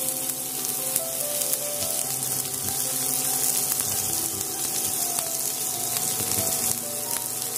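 Chopped onions sizzling in hot oil in a frying pan, a steady hiss as they fry.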